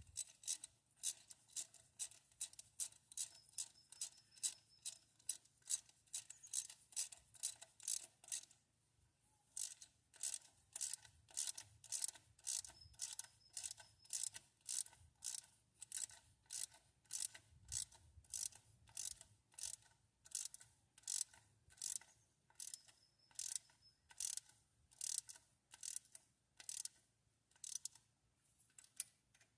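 Hand ratchet wrench clicking in a steady rhythm, about two to three clicks a second, as bolts on the engine are run down. The clicking breaks off for about a second roughly a third of the way in, then carries on.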